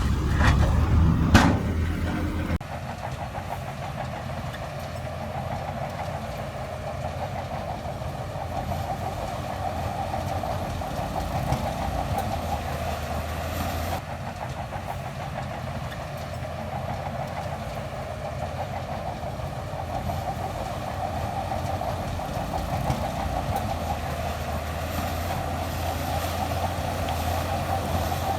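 Heavy earthmoving machine's diesel engine running steadily under work. The first couple of seconds are louder and rougher, with a sharp crack about a second in.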